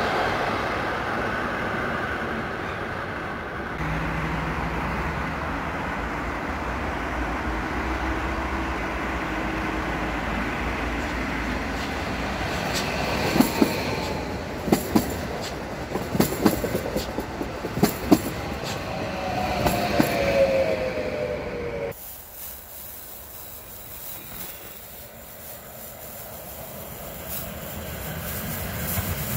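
A train passing on the tracks: a steady running rumble with a low hum, a run of sharp wheel clacks over rail joints in the middle, and a falling wheel squeal shortly before the sound cuts off abruptly. After the cut, a quieter rumble swells toward the end.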